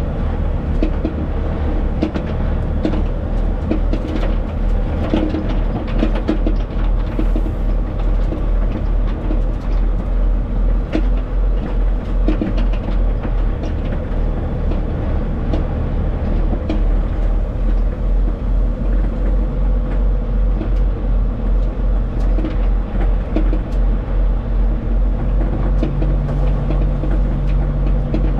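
Semi truck underway: a steady low diesel and road rumble that pulses in loudness several times a second.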